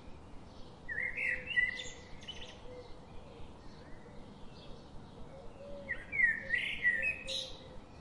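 A songbird singing two short warbling phrases, one about a second in and another near the six-second mark, with fainter chirps between them.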